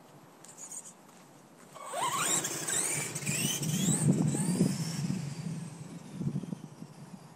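Electric motor of an RC truck, run on a 4S lipo through its stock electronics, whining as it accelerates hard, its pitch rising in several sweeps, with tyre rumble beneath. Starts about two seconds in and fades away near the end.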